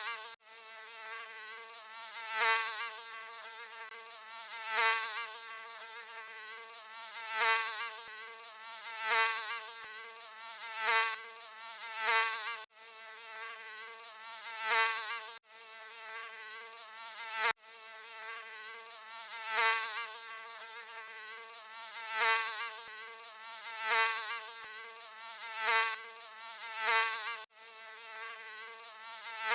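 Mosquito wings buzzing: a high, wavering whine that swells louder about every two and a half seconds, as if flying close past the ear and away again, broken by a few sudden brief gaps.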